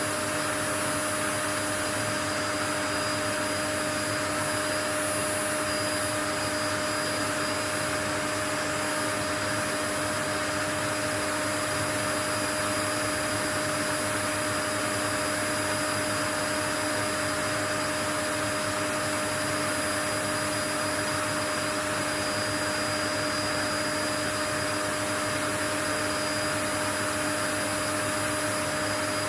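Steady white noise: an even rush with a few constant hum tones running through it, unchanging in level throughout.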